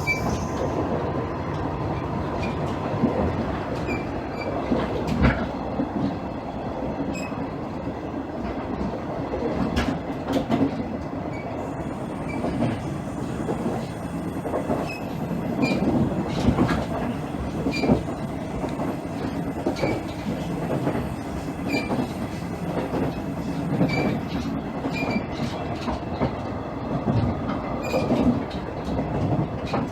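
Interior running sound of a JR East KiHa 110-series diesel railcar under way: a steady rumble of engine and wheels on rails, with irregular clicks and knocks of the wheels passing over rail joints.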